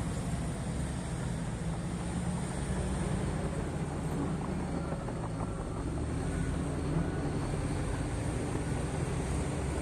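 Heavy mining machine's diesel engine running steadily, a low even drone with no change in pitch.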